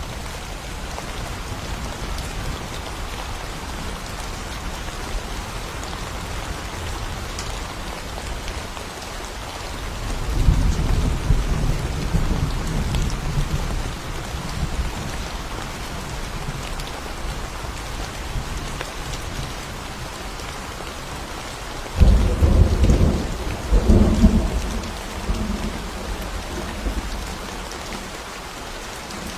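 Steady heavy rain in a thunderstorm. About ten seconds in, a low roll of thunder builds and fades. About three quarters of the way through, a sudden loud thunderclap breaks out, with a second surge of rumbling shortly after.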